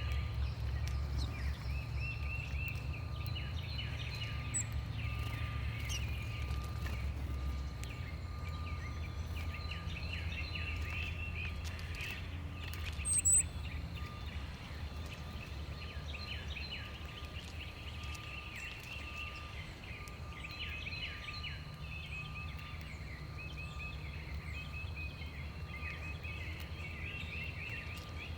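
Many small backyard birds chirping and chattering continuously over a steady low rumble, with one brief louder sound about 13 seconds in.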